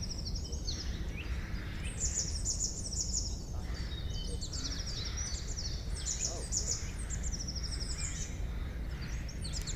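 Several songbirds singing in overlapping phrases of quick, high notes, over a steady low background rumble.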